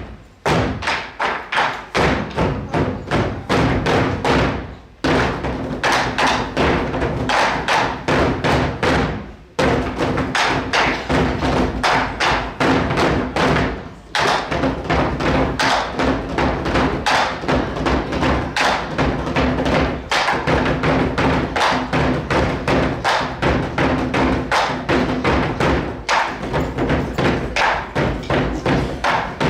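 Group of nanta drummers beating drums together in a fast, steady rhythm over backing music, breaking off briefly every few seconds between phrases.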